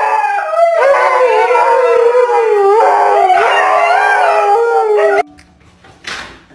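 Dog howling in long, wavering notes, cutting off abruptly about five seconds in.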